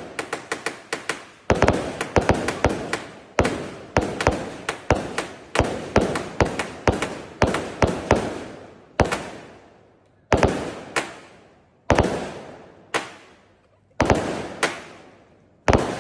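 Firecrackers going off: a quick run of sharp bangs, several a second, each with a fading tail, thinning after about eight seconds to single bangs roughly a second apart.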